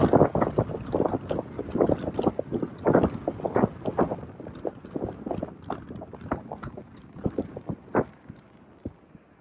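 Wind buffeting the microphone in irregular gusts with rumbling thumps, dying down near the end.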